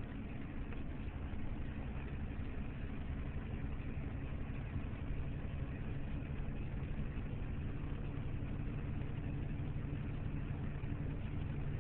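Semi truck's diesel engine running steadily while driving, heard from inside the cab as an even low drone with a hiss of road noise over it.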